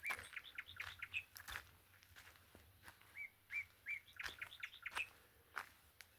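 Wild birds singing: a phrase of short, arched, whistled notes, repeated about three seconds later, among other scattered chirps. A few sharp clicks sound in between.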